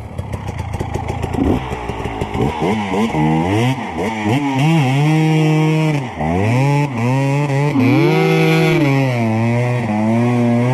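Dirt bike engine revving hard in the mud, its pitch climbing and falling again and again and held high for a couple of seconds at a time. It starts as a low rumble before the revs pick up, with a sharp dip about six seconds in.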